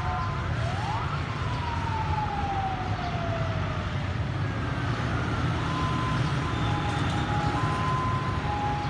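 Diesel locomotive hauling a passenger train approaching, a steady low engine rumble, under a level-crossing warning alarm that alternates between two tones. About a second in, a siren-like tone sweeps up and then slides slowly down over a few seconds; the alternating alarm drops out briefly and resumes.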